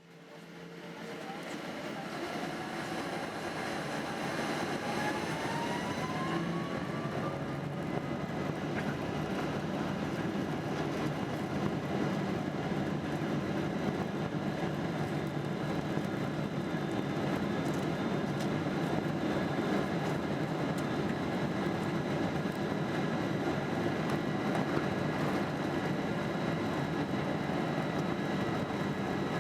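Boeing 777-200 jet engines spooling up, a whine climbing in pitch over the first several seconds, then running at a steady loud roar with high tones held through it.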